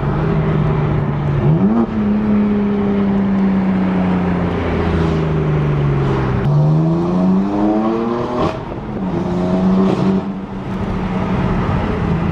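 BMW M4's twin-turbo straight-six with aftermarket downpipes, heard from inside the cabin. It gives a quick rev about a second and a half in, then cruises with the note slowly falling. About six seconds in it accelerates hard, revving up through a gear and dropping sharply at the shift two seconds later, then settles to a steady cruise.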